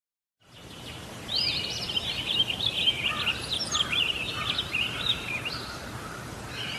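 Birdsong: a quick, continuous run of high chirps and warbles over a steady background hiss, fading in about half a second in, with the chirping starting about a second later.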